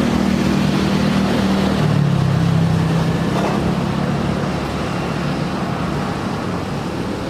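Jet airliner passing close by on its landing approach: a loud rushing engine noise with a low hum that drops in pitch about two seconds in as the aircraft goes past, then slowly fades.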